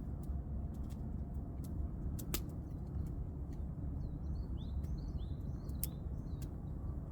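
Wood campfire crackling with scattered sharp pops over a steady low rumble, while small birds give a quick cluster of short chirps about four to six seconds in.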